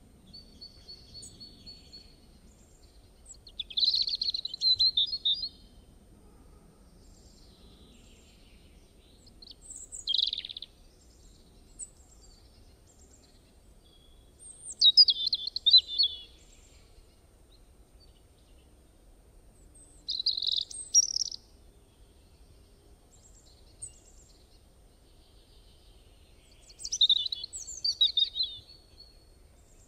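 A bird chirping in five short phrases of song, one about every five to six seconds, over a faint low hum.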